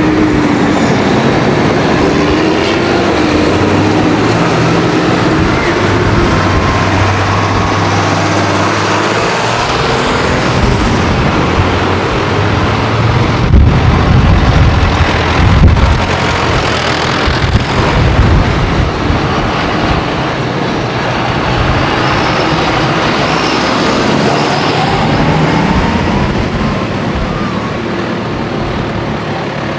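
Tractors driving past on a road, their diesel engines running. The loudest and heaviest pass comes about midway.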